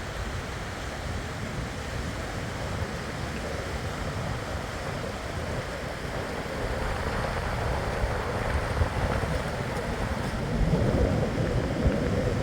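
Steady rushing of a fast-flowing river, mixed with wind on the microphone, growing louder in the second half.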